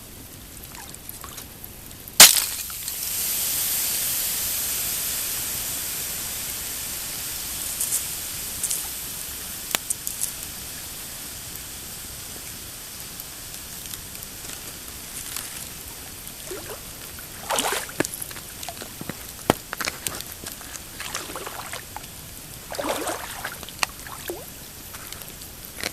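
Pine campfire crackling, with one loud, sharp pop about two seconds in followed by a long hiss that slowly fades over several seconds. Scattered smaller crackles and a few softer scraping sounds follow.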